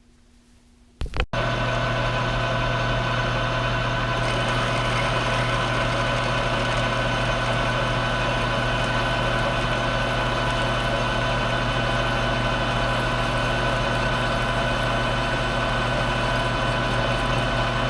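Small metal lathe switched on about a second in with a click, its motor and spindle then running steadily with an even hum and whine, set up to drill the hole for a 3/8-16 tap.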